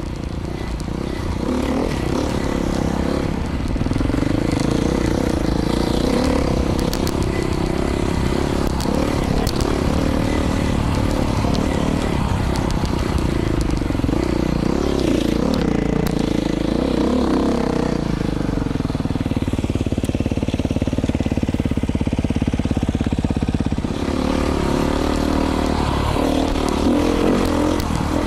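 2019 Beta 500 RRS dirt bike's single-cylinder four-stroke engine through an FMF exhaust, being ridden hard, revving up and falling back again and again as the throttle opens and closes. The pitch sits lower and steadier in the middle, then climbs again near the end.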